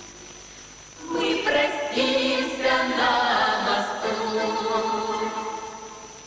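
Women's vocal ensemble singing a closing phrase in harmony, coming in about a second in and fading out near the end.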